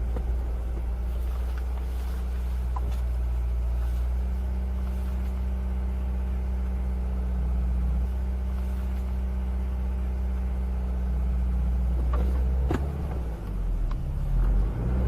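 Car engine and road noise as heard from a moving car: a steady low drone that grows less even about twelve seconds in, with a few faint knocks.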